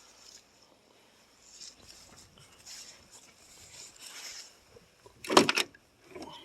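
Faint rustling handling noises, then a brief loud rattling clatter a little over five seconds in and a softer knock near the end.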